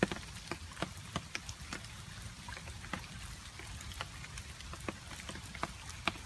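Rain falling, with many separate water drops striking a surface in irregular, sharp ticks, several a second, over a steady hiss. The loudest drop lands right at the start.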